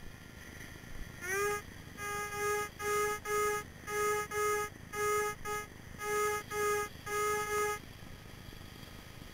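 Minelab Excalibur metal detector giving its target tone: a short rising beep, then a string of steady-pitched beeps, mostly in pairs, as the coil is swept back and forth over a buried metal target.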